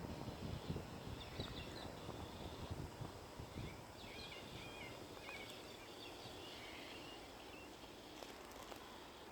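Faint birds chirping in short, repeated figures, with low uneven rumbles during the first few seconds.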